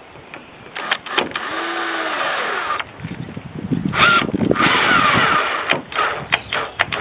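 A power tool running in two short bursts, the first about a second in and the second about four seconds in, with knocks in between.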